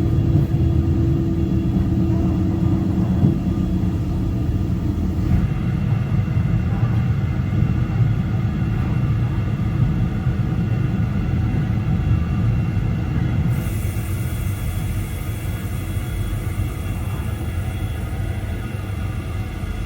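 Passenger train running at speed, a steady low rumble of wheels and running gear heard from on board, with a faint steady hum over it in the first few seconds.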